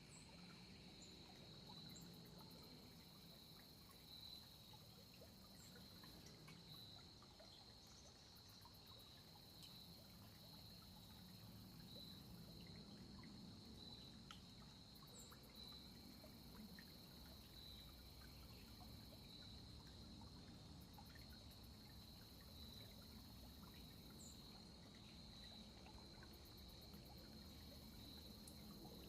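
Faint, steady insect chorus, crickets trilling continuously on one high pitch, with a few brief high chirps scattered through and a low background rumble.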